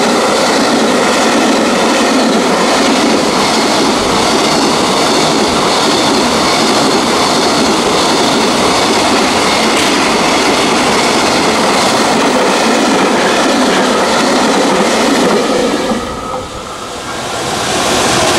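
Freight train passing close by: a loud, steady rumble with wheels clattering over the rail joints. The noise falls away briefly about sixteen seconds in, then comes back.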